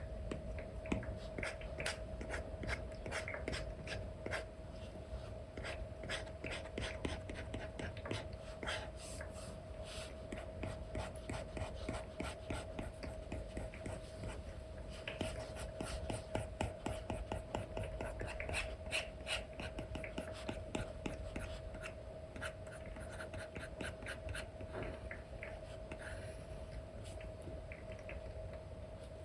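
Stylus nib scratching and tapping on a tablet's paper-like screen protector in many quick brush strokes, with a faint steady hum underneath.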